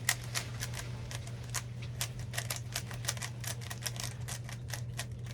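Plastic Rubik's-type puzzle cube being turned quickly by hand during a speed solve: a rapid, irregular run of clicks and clacks, several a second, as the layers snap round.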